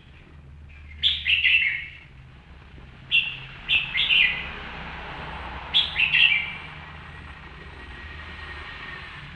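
A bird calling in three short groups of sharp chirps, each note sliding downward, about two seconds apart.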